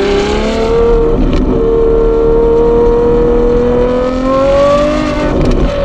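Ferrari 812 GTS's naturally aspirated 6.5-litre V12 breathing through a Novitec exhaust, pulling in gear with its revs climbing slowly and steadily. The revs ease off a little near the end.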